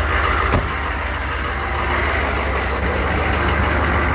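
1995 Chevy K3500's 6.5-litre turbo diesel V8 idling steadily, with one sharp click about half a second in.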